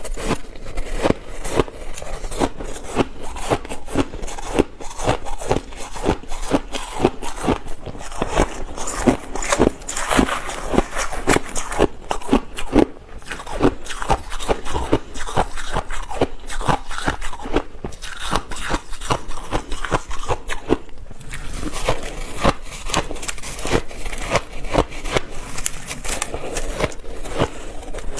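A person chewing ice, with dense crunching and crackling bites that come several a second, easing off briefly a couple of times.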